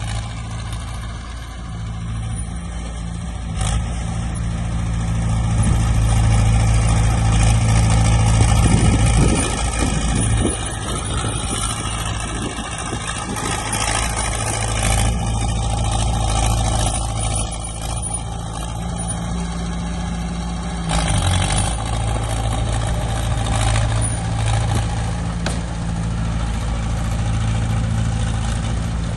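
Diesel engine of heavy earthmoving machinery running steadily, working harder and louder for a few seconds about a third of the way in before settling back.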